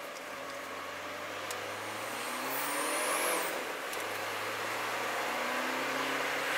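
Car engine accelerating, heard from inside the cabin over tyre and road noise. Its pitch climbs, drops once about three and a half seconds in at a gear change, then climbs again.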